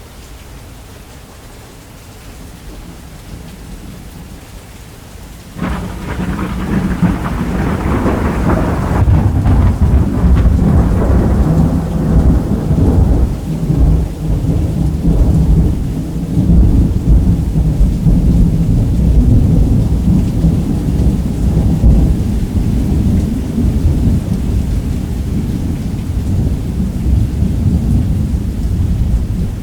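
Heavy rain falling on a roof, then about five and a half seconds in a sudden thunder crack that rolls into a long, loud, low rumble.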